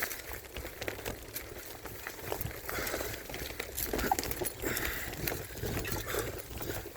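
Mountain bike riding over a bumpy dirt trail: low tyre rumble with frequent rattles and knocks from the bike and its handlebar-mounted phone holder. The rider breathes hard, with a couple of heavy breaths in the middle.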